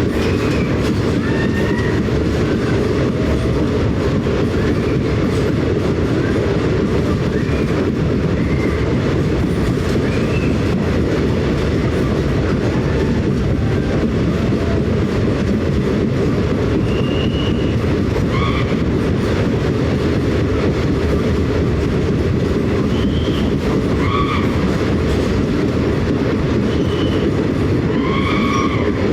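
Train running on the rails: a steady, loud low rumble with no let-up, with brief high-pitched tones breaking through now and then, several of them near the end.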